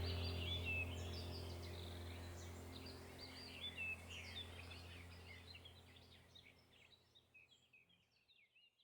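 Small birds chirping rapidly over a low, steady droning tone, the whole sound fading out gradually to silence by the end.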